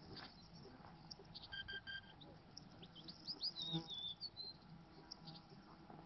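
Wild birds chirping faintly, with a run of quick gliding high notes about three to four seconds in. About a second and a half in there are three short, high beeps in quick succession.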